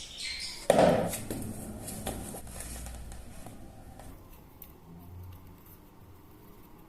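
A sudden loud knock or clatter less than a second in, fading out over about a second, followed by quieter scattered handling and rustling noises.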